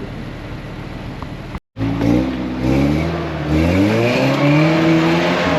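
Off-road 4x4's engine running steadily, then, after an abrupt cut about a second and a half in, revving hard under load. The pitch climbs for a couple of seconds and then holds high as the vehicle works up a slippery climb.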